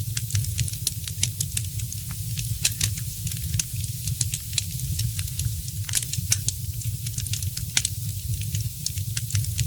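Wood fire in a fireplace crackling, with many sharp pops and snaps a second over a steady low rumble.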